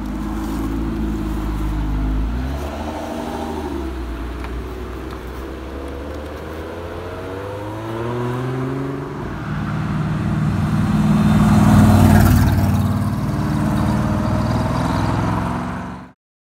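Lotus Emira engine as the car pulls away and accelerates, revs climbing and dropping several times as it shifts up, loudest about twelve seconds in.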